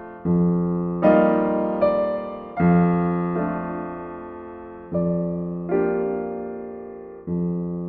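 Slow, gentle solo piano music: single chords or notes struck every second or two, each ringing out and fading before the next.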